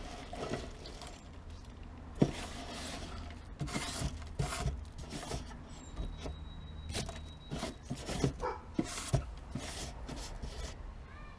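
Irregular rustling, scraping and knocking of leaves and wet debris being cleared out of a rain gutter by gloved hands, with one sharp knock about two seconds in.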